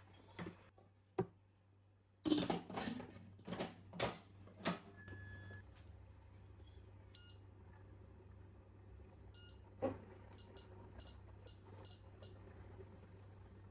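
A few knocks and clinks, then a single short electronic beep followed by a run of short high-pitched beeps like presses on an appliance's touch buttons, over a steady low hum.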